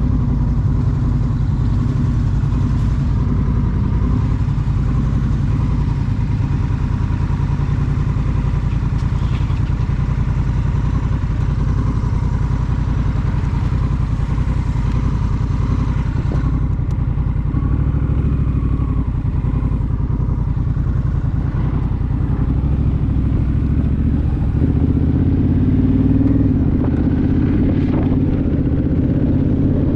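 Honda Rebel motorcycle's parallel-twin engine running steadily under way. The engine pitch and loudness rise about three-quarters of the way through as the bike accelerates.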